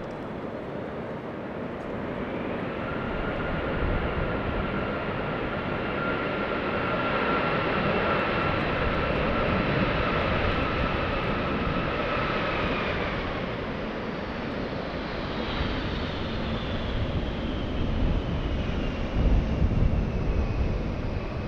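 Jet airliner passing close by: a loud engine rush with steady high fan whines, which give way to a slowly falling whine as it goes past. Low rumble swells near the end, then the sound cuts off suddenly.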